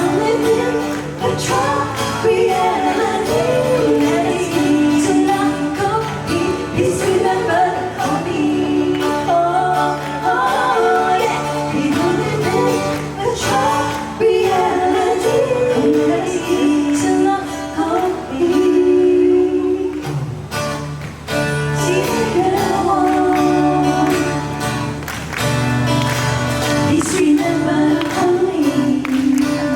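Live pop music: singing over a band with a steady drum beat and bass.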